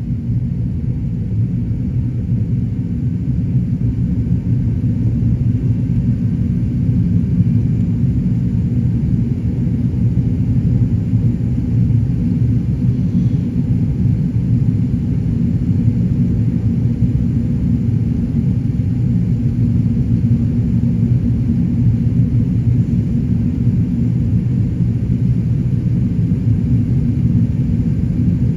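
Qantas Airbus A380 with its Rolls-Royce Trent 900 engines, a steady low rumble of engine and airflow noise with a few faint steady tones above it, after takeoff.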